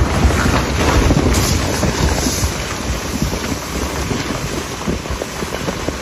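Heavy wind buffeting the microphone over a steady rushing roar, gusting louder about a second in.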